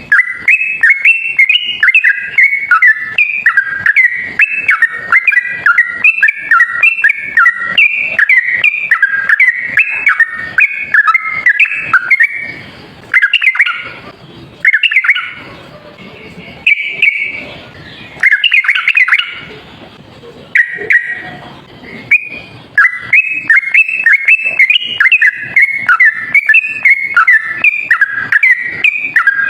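Yellow-vented bulbul (trucuk) singing a rapid, unbroken run of bubbling chattering notes, the 'ropel' style used as a trapping lure call. The song breaks into shorter separate phrases for several seconds in the middle, then runs on rapidly again.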